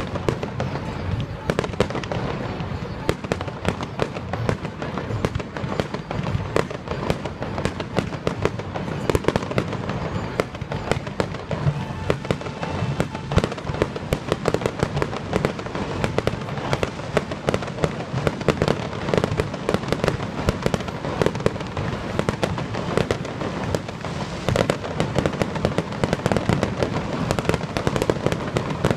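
Fireworks display going off: a dense, continuous barrage of rapid overlapping bangs and crackle.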